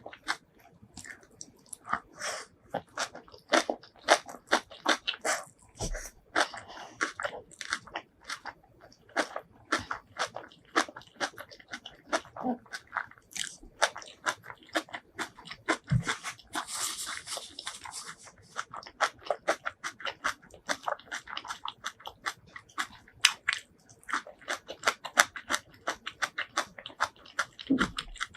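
Close-miked eating sounds: a person biting, chewing and crunching food in a dense run of sharp, wet crunches and clicks, with a short hissing stretch midway.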